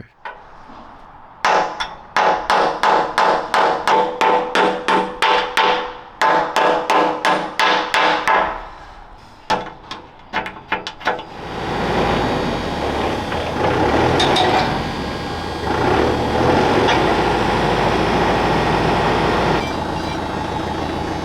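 A hammer striking steel in a steady run of ringing blows, about three a second, then a few looser blows. From about halfway, a steady mechanical running noise takes over.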